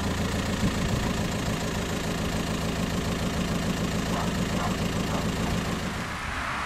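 Volkswagen Golf's engine running steadily at idle.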